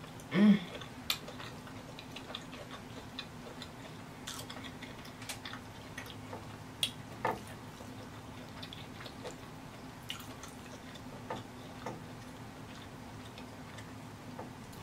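Close-miked chewing of buttery seafood: scattered wet mouth clicks and lip smacks, with a short hummed "mm" about half a second in.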